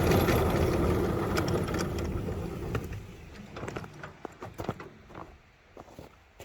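A vehicle's engine running, dying away over the first three seconds, followed by a scatter of light clicks and knocks.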